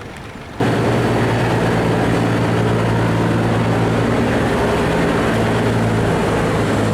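Boat engine running loud and steady with a low hum, cutting in abruptly under a second in.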